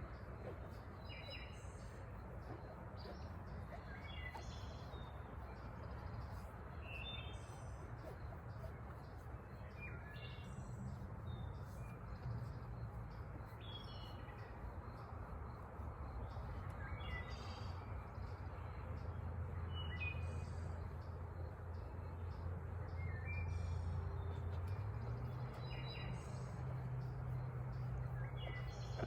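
Birds chirping, short high calls every second or two, over a low steady hum that steps up slightly in pitch near the end.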